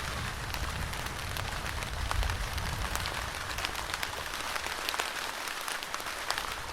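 Steady rain, with many separate drop hits ticking close by. Under it is a low rumble that dies away about four seconds in.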